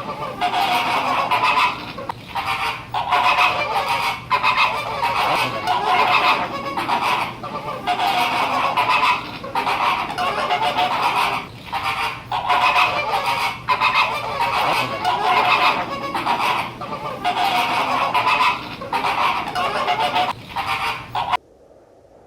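A flock of flamingos honking, many goose-like calls overlapping in quick succession; it cuts off abruptly near the end.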